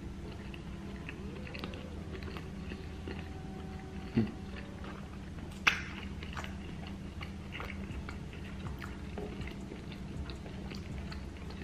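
A person chewing food close to the microphone, with small wet mouth clicks over a steady low hum. A low thump comes about four seconds in, and a single sharp click just before six seconds is the loudest sound.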